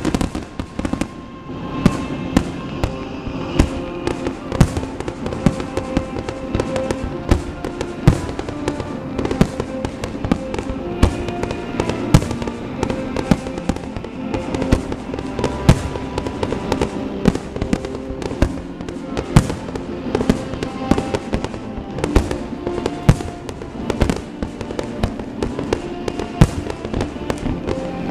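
Fireworks bursting in rapid succession, several sharp bangs a second, over music with sustained tones playing through the display.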